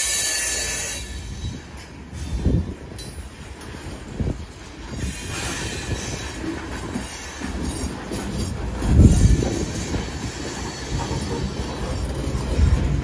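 Coal cars of a freight train rolling past at close range: a steady rumble of wheels on rail with occasional knocks, swelling about nine seconds in. A high wheel squeal sounds in the first second and comes back faintly about five seconds in.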